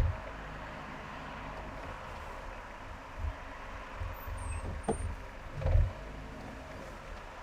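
Car driving on a highway: steady road and engine noise with a low rumble, broken by several short low thumps, the loudest near the end.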